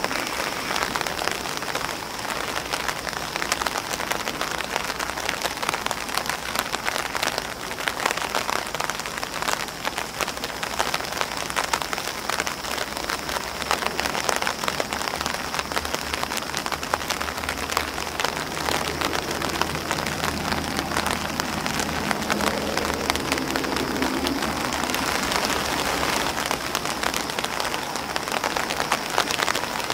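Steady rain pattering on an umbrella and on grass leaves, a dense stream of drop ticks without a break.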